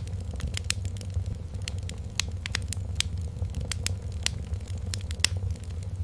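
Wood fire in a fireplace crackling, with irregular sharp pops of varying loudness over a low steady rumble and a faint steady tone.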